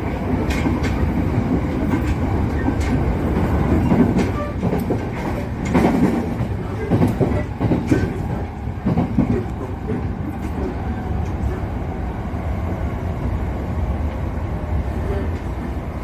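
JR Musashino Line electric train running on its rails, a steady rumble with a run of sharp wheel clicks over rail joints in the first half, then a smoother, steadier run.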